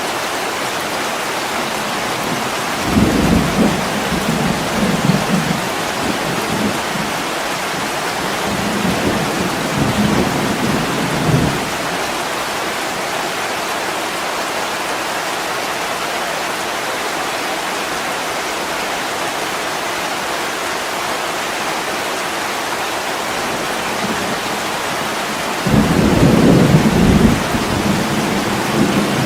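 Steady heavy rain on a window glass, with low thunder rumbling three times: a few seconds in, again around ten seconds, and near the end.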